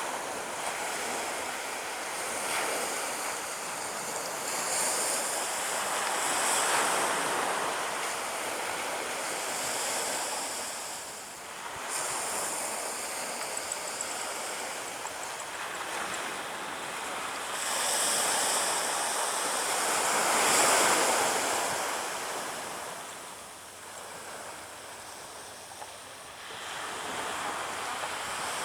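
Surf breaking on a beach, the wash of the waves swelling and easing every few seconds, with some wind on the microphone.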